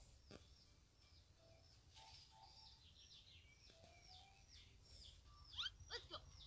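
Faint birds chirping over a low background hiss, many short calls repeating throughout, with a few louder sweeping calls near the end.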